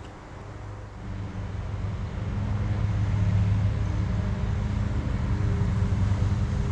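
Engine running steadily with a low hum, growing louder over the first three seconds, then holding.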